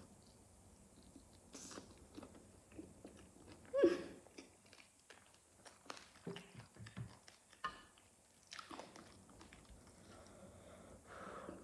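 A person chewing and biting baked chicken close to the microphone: small wet mouth clicks and light crunches, with one louder, short mouth sound about four seconds in.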